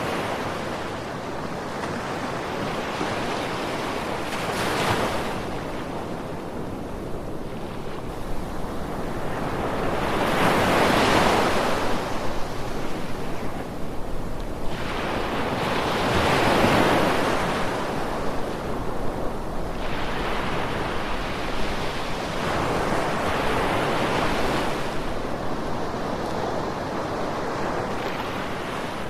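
Ocean waves breaking and washing up the shore, a steady rush of surf that swells and fades in about four surges a few seconds apart, the middle two the loudest.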